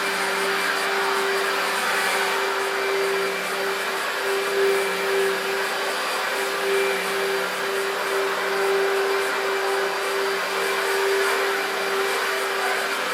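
Electrolux Contour Z1501 upright vacuum cleaner running on its 1300 W motor: a steady rushing of air with a constant motor whine, the level swelling slightly a few times.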